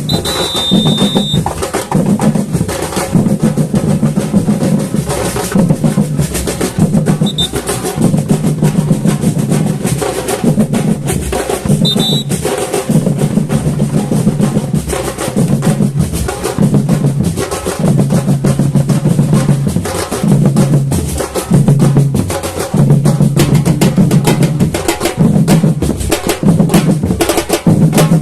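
Samba batucada drum ensemble playing a steady samba groove: deep bass drums pulse in a repeating pattern under dense snare-drum strokes. Short high steady tones sound near the start and twice more.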